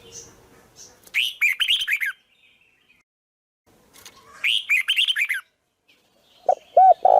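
A songbird singing two short phrases of quick, high, down-slurred notes about three seconds apart. Near the end a lower-pitched bird joins with a few short arched notes.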